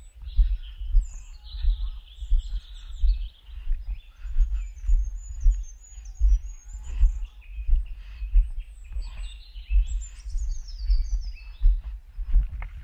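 Several small birds singing and chirping, over the low, regular thud of a walker's footsteps, about three steps every two seconds.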